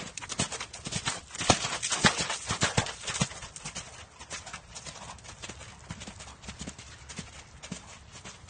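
Horse's hooves clip-clopping on hard ground, a quick run of sharp clicks. They are loudest and closest together in the first few seconds, then fainter and more spaced.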